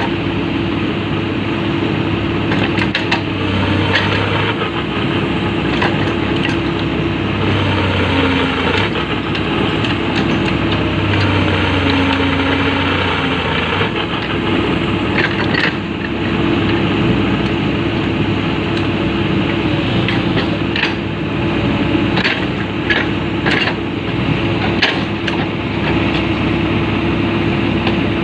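Komatsu PC200 excavator's diesel engine running steadily, its note shifting now and then as the hydraulics take load. Occasional sharp metallic knocks are heard over it.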